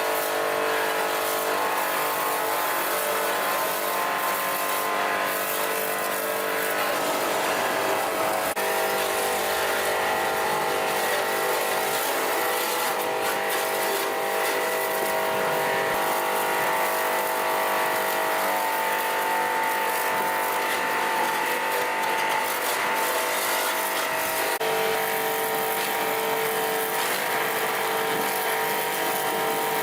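A motor or engine running steadily, a continuous even hum made of several steady tones, with a slight change in its tone about 8 seconds in and again near 25 seconds.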